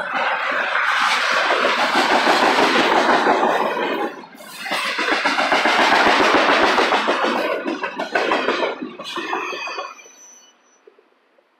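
Double-stack intermodal well cars rolling past at speed: loud wheel-on-rail noise with rapid clicking of wheels over the rail joints. The noise dips briefly about four seconds in, then falls away near the end as the last car clears, leaving a thin high ring that fades out.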